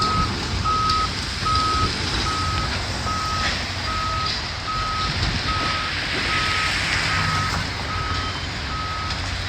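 Backup alarm on heavy demolition equipment beeping steadily, one tone about every 0.8 seconds, over the low, steady running of a diesel engine. The machine is reversing or travelling.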